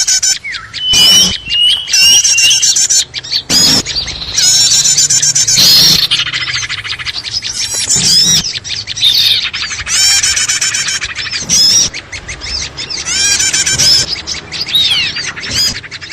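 Dense, loud chorus of many small birds chirping and twittering at once, fast overlapping high notes and trills with abrupt breaks where the recording is spliced: a 'noisy' lure call played to draw small birds in.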